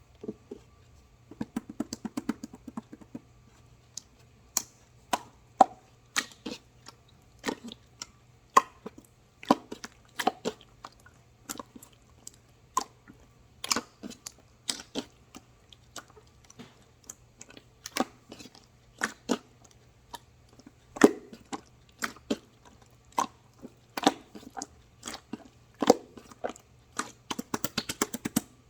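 Crisp, irregular clicks and crunches, roughly one or two a second, with quick runs of small rapid clicks near the start and again near the end.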